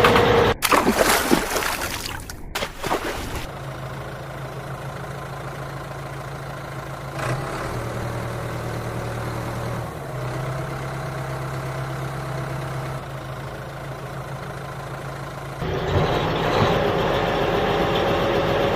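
Engine-like vehicle sound idling as a steady low hum that breaks briefly a few times and grows louder and busier near the end, with a couple of sharp cut-outs in the first few seconds.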